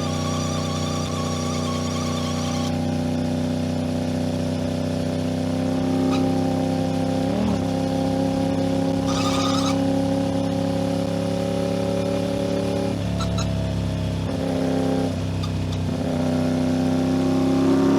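Aprilia RS 660 parallel-twin engine running steadily on the road, with a high thin whine over it that stops about three seconds in. The engine note breaks and drops twice past the middle, then the revs climb near the end.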